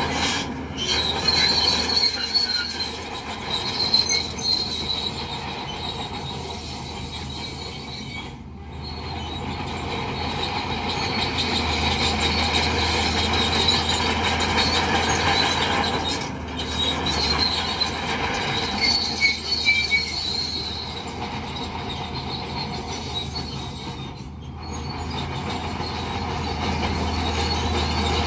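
Crawler bulldozer working in mud: its diesel engine running under load and its steel tracks squealing and clanking as it pushes. The engine drops away briefly about every eight seconds and then builds again.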